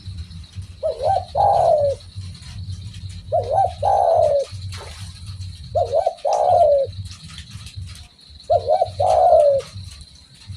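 Spotted dove (derkuku) cooing: four phrases about two and a half seconds apart, each a quick double note followed by a longer falling coo. A steady low rumble runs underneath.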